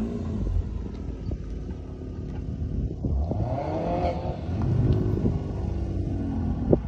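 Car engine revving, its pitch rising and falling several times, with a sharp knock near the end.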